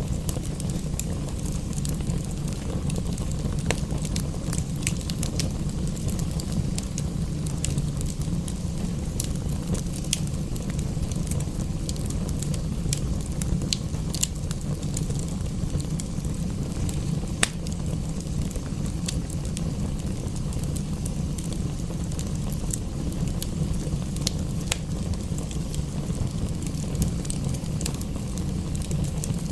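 Wood fire crackling in a fireplace, with scattered sharp pops over a steady low rumble and an even hiss of rain.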